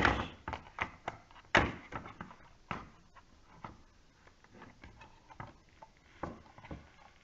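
Scattered plastic clicks and knocks from handling a small portable sound machine while its battery compartment is opened, with one sharp click about a second and a half in.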